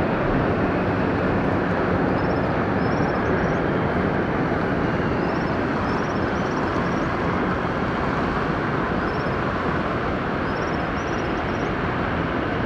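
Steady roar of an airliner's jet engines, even in level throughout. Faint insect chirps repeat high above it.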